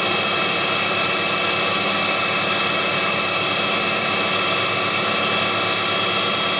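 Proxxon PD 250/E mini lathe running at a steady speed, its motor and drive giving a steady whine of several tones over a hiss.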